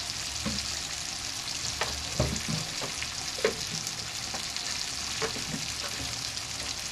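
Mutton, tomatoes and spice masala frying in a wok: a steady sizzle with a few faint clicks.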